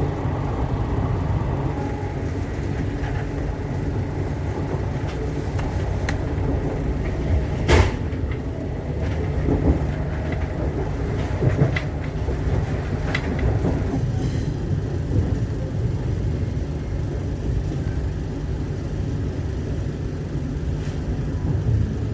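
Passenger train running: a steady low rumble of the coach riding on the rails, with a few sharp knocks, the loudest about eight seconds in.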